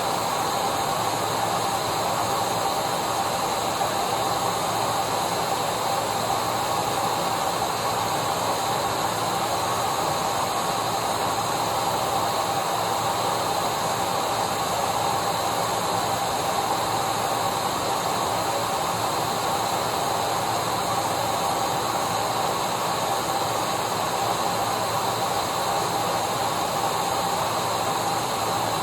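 Electric vacuum cleaner running steadily: a constant rush of air with a steady motor whine, unchanging throughout.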